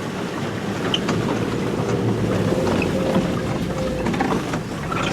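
Car driving on a narrow dirt road, heard from inside the cabin: a steady low rumble of engine and tyres.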